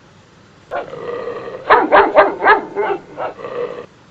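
Dog barking: a quick run of short barks, the loudest four close together about two seconds in, then a few weaker ones.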